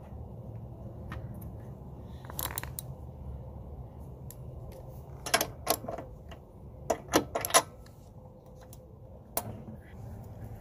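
Metal clinks and clicks of a ratcheting combination wrench working a bolt on a Briggs & Stratton push-mower engine, in a few short bursts, over a low steady hum.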